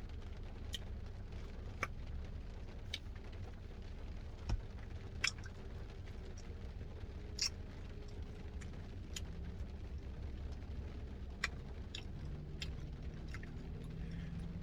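Someone eating a Dairy Queen Blizzard with a spoon: scattered short clicks and taps of the spoon and mouth at irregular intervals, over a steady low hum.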